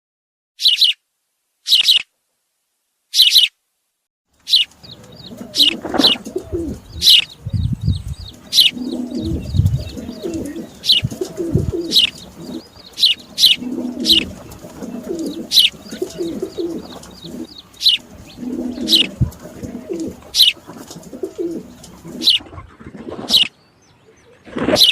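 Pigeons cooing among sharp, high chirps from small birds. For the first four seconds only separate chirps are heard. Then the cooing sets in and repeats every second or so, with a few low thumps about eight to ten seconds in.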